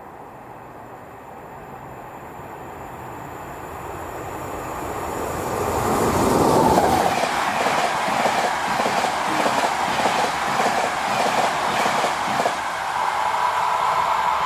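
A train approaching and passing close, growing steadily louder for about six seconds, then a loud run of rhythmic wheel clatter over the rail joints as the cars go by.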